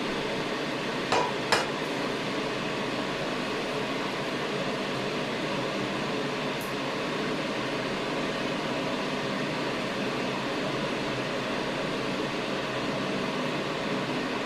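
Two quick knocks of a utensil on a frying pan about a second in, over a steady kitchen hiss.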